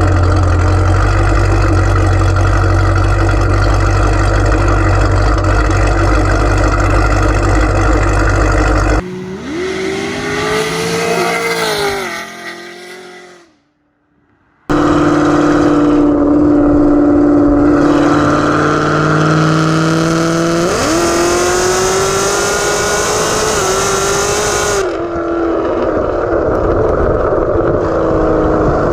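Camaro ZL1 1LE's supercharged V8 with headers, cam and Corsa Extreme exhaust, running loud under load. Its pitch rises and falls as it pulls. About a third of the way in the sound drops, fades out to a brief silence and comes back loud.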